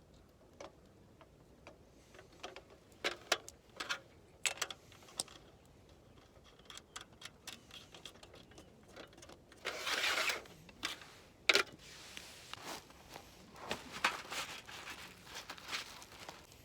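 Scattered small clicks and knocks of things being handled, with a short rustling scrape about ten seconds in and a sharp knock just after it.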